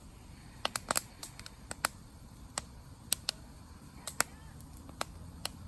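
Wood campfire crackling: sharp, irregular pops and snaps from the burning wood over a faint low rumble of the fire.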